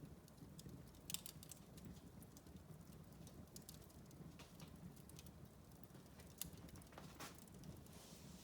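Wood fire crackling faintly in a fireplace: scattered pops and snaps over a low steady hum, the sharpest pop about a second in.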